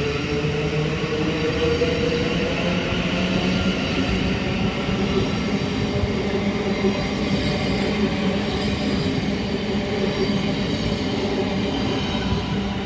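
Thameslink Class 700 electric multiple unit pulling away, its traction motors giving a steady whine with a slight rise in pitch over the first couple of seconds, over the rumble of its wheels on the rails.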